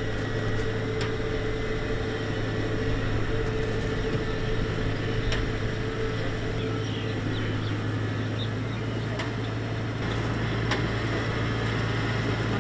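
Kubota DC-70X rice combine harvester running steadily at work, its diesel engine and threshing machinery making a constant low drone. A steady higher hum in it drops away about halfway through.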